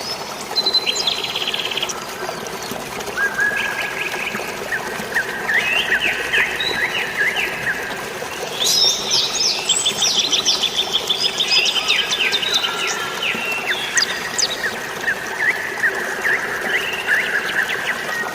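Several songbirds chirping and trilling in fast runs of short notes, overlapping and busiest around the middle, over a steady rush of flowing water.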